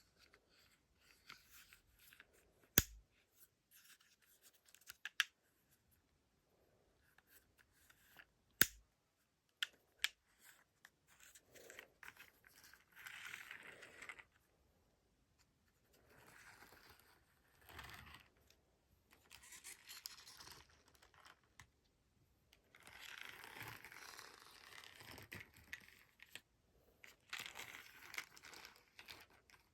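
Faint handling noises: two sharp clicks, then several stretches of scratchy rustling, each a second or more long.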